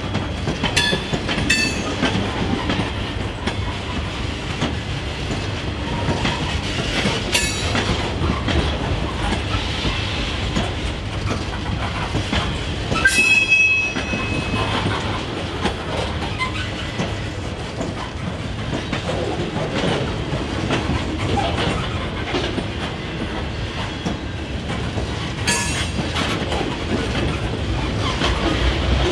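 Loaded ore train's cars rolling past with a steady rumble and clickety-clack of wheels over rail joints. A few brief high wheel squeals cut in, the loudest about halfway through.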